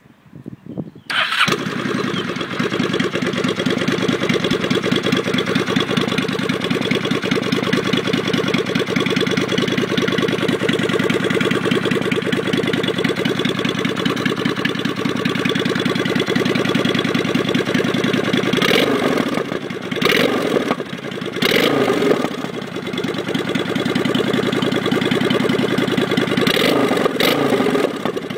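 2008 Honda Shadow Aero's V-twin engine, breathing through a Vance & Hines exhaust with quiet baffles, starts about a second in and settles into a steady idle, with a few short throttle blips in the second half.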